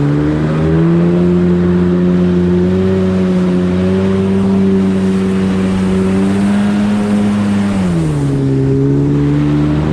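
1995 Sea-Doo SP jet ski's two-stroke engine running steadily under way, with water rushing beneath it. The engine note rises slightly, then drops about eight seconds in as it slows.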